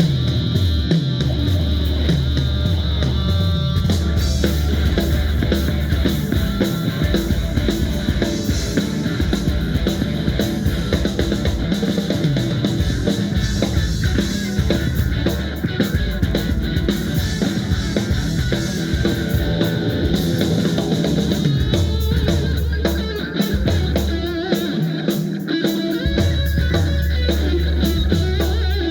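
Live rock band playing: drum kit and electric guitar over bass, loud and continuous.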